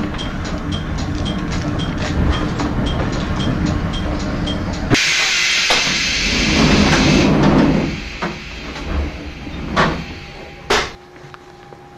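Vintage KuMoHa 42 electric railcar rolling with a steady rumble under a level-crossing bell dinging about three times a second. About five seconds in, a sudden loud hiss of compressed air as it stops, with a heavier rumble of the door sliding open. Two sharp knocks follow, then a quieter steady hum.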